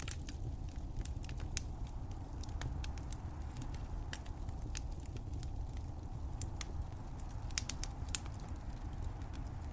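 Wood fire crackling: irregular sharp pops and snaps over a steady low rumble, with a few louder pops near the end.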